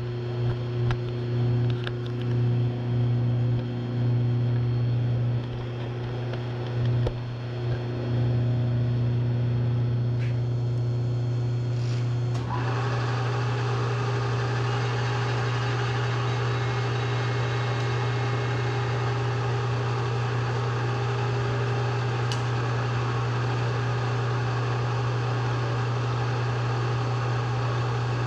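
Kay Industries Phase Master rotary phase converter running up to speed, giving a steady electrical hum. About twelve seconds in, a higher-pitched whine joins it and holds steady.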